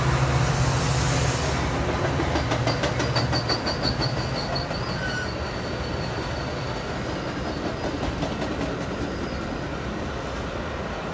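Metra commuter train passing at speed, pulled by an EMD F40PH diesel locomotive. The locomotive's engine hum fades in the first second or two as it moves off, leaving the bilevel coaches' wheels clicking over rail joints, with a faint high wheel squeal a few seconds in. The sound slowly dies away as the train draws off.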